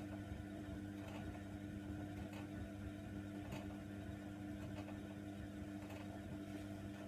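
Hoover Nextra washer dryer running mid-cycle: a steady motor hum as the drum turns, with a short click about every second and a bit.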